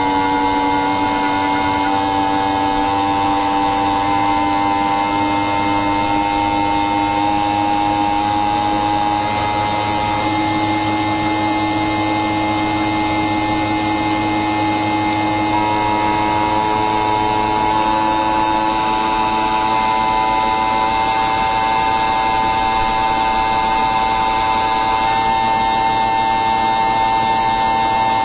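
A machine running with a steady electric whine of several tones at once, whose pitch steps up or down slightly a few times.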